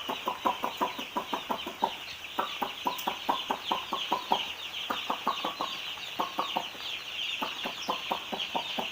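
A shed full of broiler chickens cheeping: a dense, steady chorus of high, short falling peeps, over which closer birds give rapid clucking calls in runs of about five a second that stop and start.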